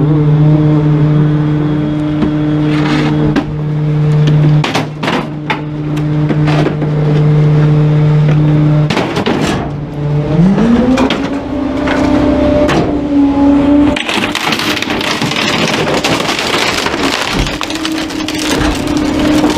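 Garbage truck's diesel engine running with a steady hum and scattered clicks, then revving up about ten seconds in and holding the higher speed. From about fourteen seconds a loud, harsh, rough noise joins it.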